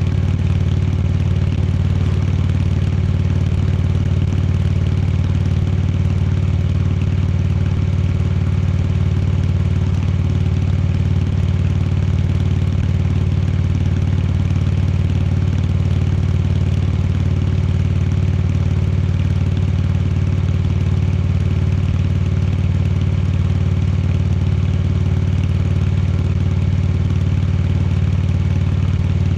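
Indian Chieftain Dark Horse motorcycle's V-twin engine running at a steady, unchanging pitch.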